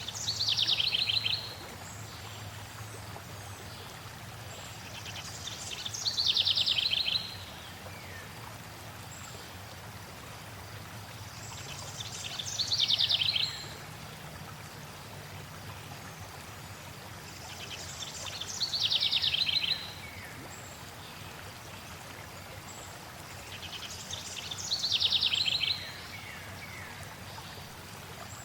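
A songbird repeating the same short, fast trill that falls slightly in pitch, five times at an even pace of about one phrase every six seconds, over a steady rush of flowing water.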